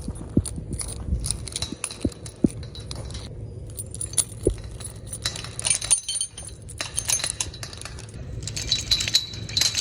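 Small metal pieces jingling and clinking in irregular bursts, busiest about halfway through and again near the end.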